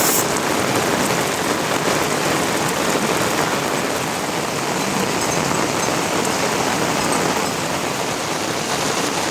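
Rain falling steadily, an even hiss with scattered drop ticks.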